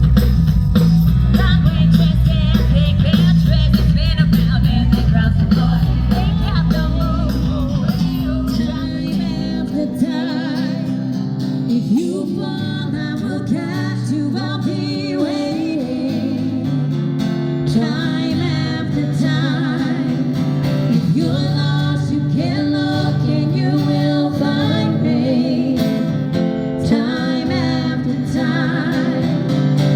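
Live rock band playing, with guitars and a female lead vocal. The deep bass is heavy at first and drops away about ten seconds in, leaving the guitars and voice.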